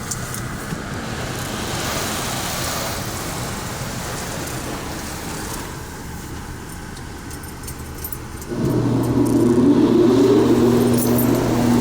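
Ryko Radius automatic car wash running with a steady hiss. About two-thirds of the way through, a motor starts abruptly with a loud steady hum and a whine that rises as it spins up.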